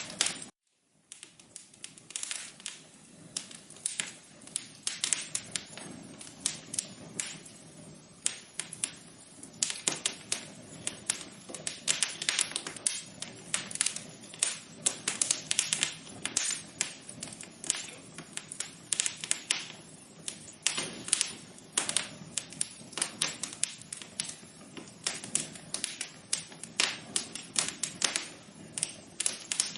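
Wood fire crackling: dense, irregular pops and snaps over a soft low hiss. The sound cuts out briefly about half a second in.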